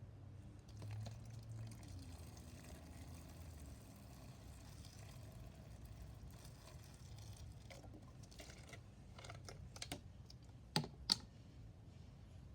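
Hydrogen peroxide being poured into a plastic bottle: a faint pour with scattered light clicks of the bottle being handled, and two sharp clicks close together a little before the end.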